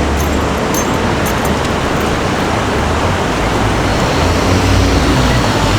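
City street ambience: a steady wash of road traffic with a low engine rumble.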